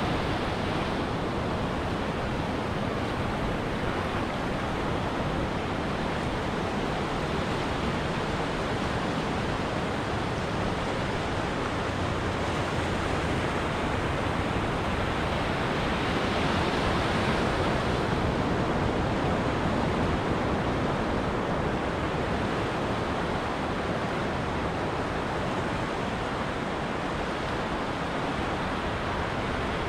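Ocean waves breaking and washing onto a beach: a steady rush of surf that swells a little just past the middle.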